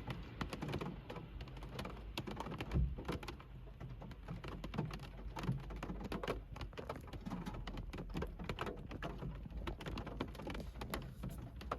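Rain falling on a car's roof and windows, heard from inside the car: dense, irregular drop taps over a low steady hum, with one heavier knock about three seconds in.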